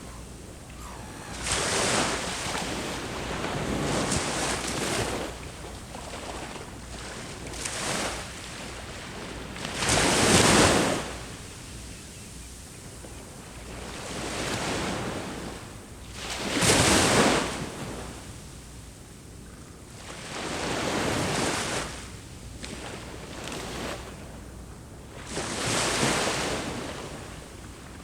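Sea waves breaking on the shore, each wash swelling and fading every few seconds, the biggest breakers about ten and seventeen seconds in, with some wind on the microphone.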